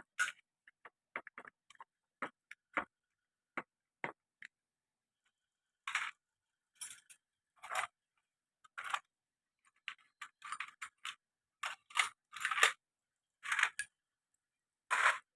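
Hand tools and small metal engine parts clicking and clattering in irregular strokes while a motorcycle engine's clutch side is taken apart. Sharp single clicks come first, then longer rasping clatters from about six seconds in.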